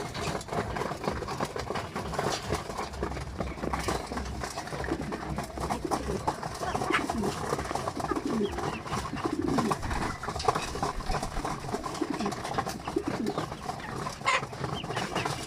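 Domestic racing pigeons in a loft cooing, many birds at once in overlapping low swooping calls, with a few short sharp clicks among them.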